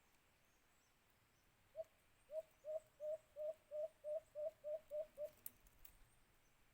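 White-eared brown dove giving a series of about eleven short coos, evenly spaced at roughly three a second. The series starts a little under two seconds in after a single lead note and stops after about three and a half seconds.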